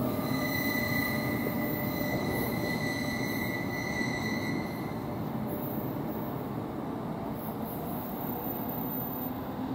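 NJ Transit electric commuter train running through and away at speed, its wheel-and-rail rumble fading slowly. A high steady whine sits over it for the first half and stops about halfway.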